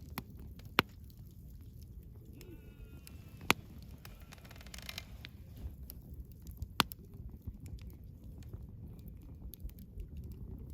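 Wood campfire burning with a low steady rumble and small crackles, and three sharp loud pops spread through it. A brief high whistling tone comes about two and a half seconds in, and a short hiss follows around the fifth second.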